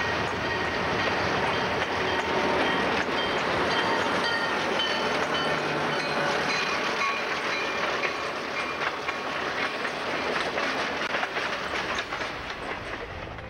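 Diesel freight train passing close by: the locomotives go by first, then the freight cars roll past with the wheels clattering over rail joints. A few faint high squeals come from the wheels in the middle.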